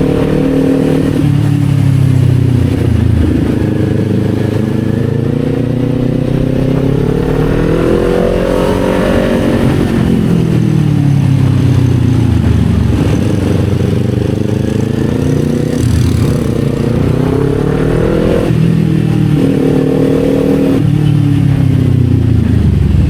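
Kawasaki Z400's parallel-twin engine under way, its pitch climbing and falling several times as the rider opens and closes the throttle. Near the end it makes two sudden drops in pitch.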